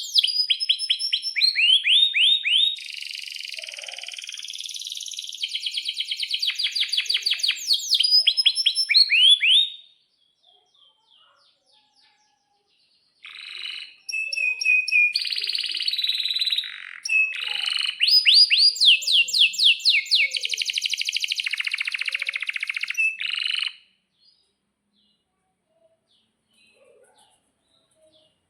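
Male domestic canary singing long song phrases of rapid, high repeated notes and rolling trills. It sings in two bouts of about ten seconds each, with a pause of a few seconds between them and a quiet stretch near the end.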